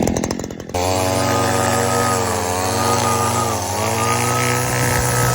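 Stihl FS94R string trimmer's 4-MIX engine freshly fitted with a new spark plug, air filter and fuel filter: running at high revs, then dropping to a steady idle under a second in, with a couple of slight dips in speed.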